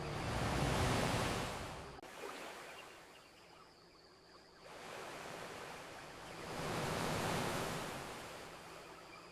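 Ocean waves washing onto a beach: two swells of surf about six seconds apart, the first cutting off suddenly about two seconds in, over a faint crackle of a campfire.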